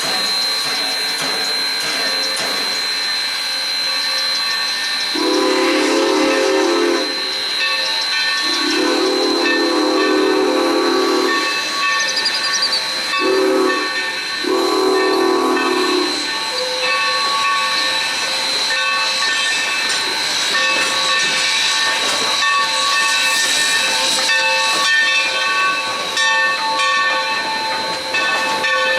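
Steam locomotive whistle sounding the grade-crossing signal: two long blasts, a short one and a final long one. A steady steam hiss runs underneath.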